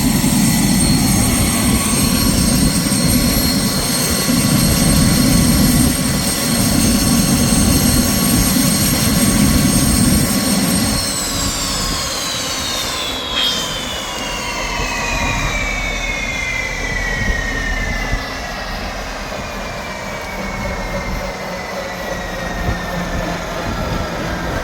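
Helicopter GTD-350 turboshaft engine running with a dense low rotor-and-engine rumble and a steady high whine. About eleven seconds in the rumble drops away and the whine falls steadily in pitch as the engine is shut down and spools down.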